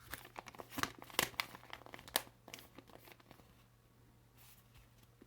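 Paper crinkling and rustling as a folded instruction manual is handled, with a run of sharp crackles over the first three seconds that then dies down.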